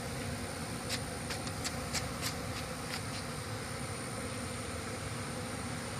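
Steady drone of a disturbed honeybee colony during a hive cutout. About a second in, a quick run of about ten light clicks comes over the top and stops near three seconds.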